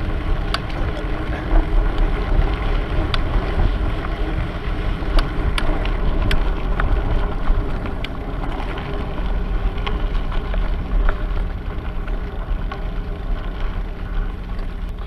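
Wind rumbling on the microphone of a camera riding on a moving bicycle, with scattered sharp clicks and rattles from the bike over the ground.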